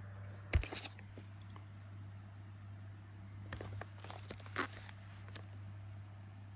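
Firework packaging being handled: a few scattered knocks and crinkly rustles, a couple near the start and a cluster from about three and a half seconds in, over a steady low hum.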